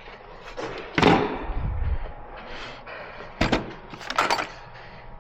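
Clunks and clatter of a car battery and its cables being handled and hooked up: a heavy thud about a second in, then two sharper metallic clatters around three and a half and four seconds in.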